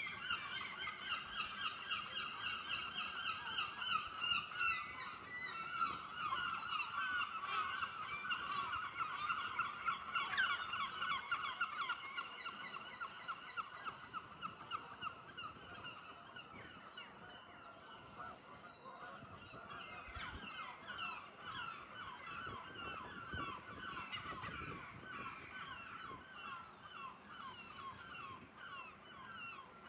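Gulls calling in a dense chorus of rapid, repeated calls that overlap one another, growing fainter after about twelve seconds.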